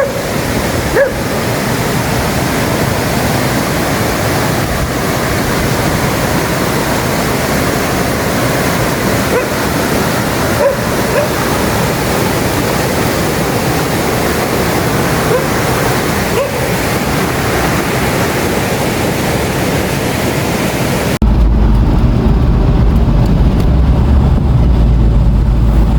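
Steady rushing noise, like running water or wind, with a few short high yelps over it. About 21 seconds in it cuts abruptly to a deep, louder low rumble.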